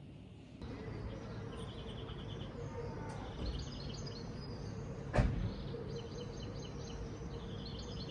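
Background ambience: a steady low hum with repeated high chirping in short runs, and a single sharp knock about five seconds in.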